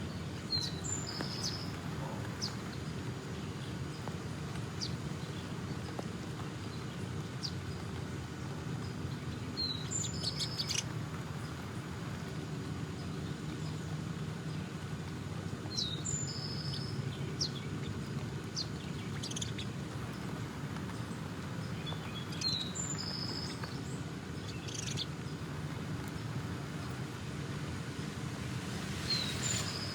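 A songbird giving the same short, high chirping call five times, several seconds apart, with fainter chirps in between, over a steady low background hum.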